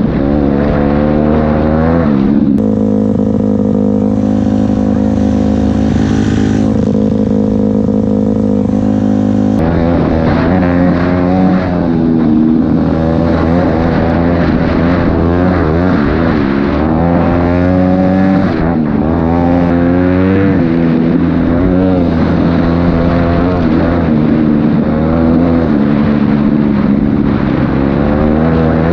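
Honda CRF250L dirt bike's single-cylinder four-stroke engine running while ridden, its pitch rising and falling as the throttle opens and closes. From about two and a half seconds in to nearly ten seconds it holds one steady pitch, then goes back to rising and falling.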